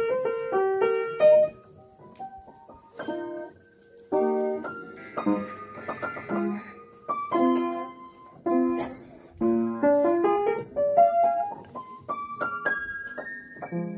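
Piano music: a melody of separate struck notes in short phrases with brief pauses between them.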